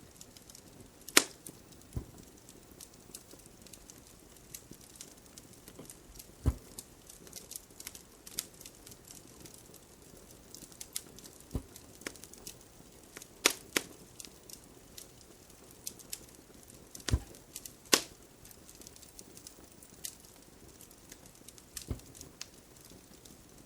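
Fireplace crackling: irregular sharp pops and snaps over a faint steady hiss, the loudest pops about a second in, about halfway through and near three-quarters of the way.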